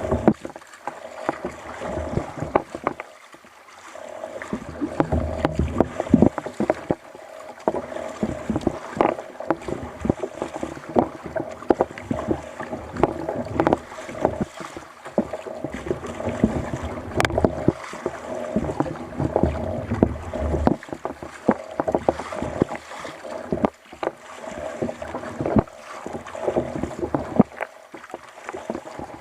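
Water lapping and splashing against a fishing kayak's hull, with frequent small irregular knocks and clicks.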